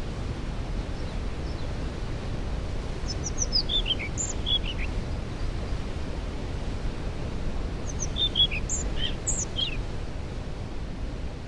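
Waterfall rushing steadily, with a songbird singing short phrases of quick descending chirps, about three seconds in and again about eight seconds in.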